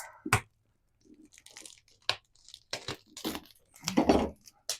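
A spice container being handled and opened: a run of short scrapes, clicks and crinkles, the loudest about four seconds in.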